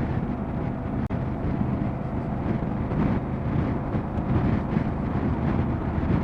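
Motorcycle riding at road speed: steady engine drone under wind buffeting on the rider's microphone, with a brief dropout about a second in.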